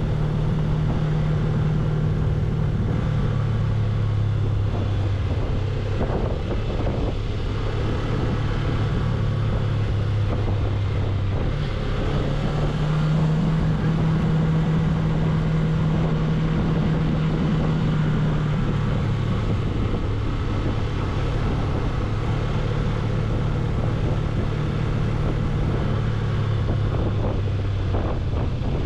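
Suzuki V-Strom 250's parallel-twin engine running steadily under way, with wind rush on the microphone. The engine note shifts slightly about twelve seconds in and shifts back about seven seconds later.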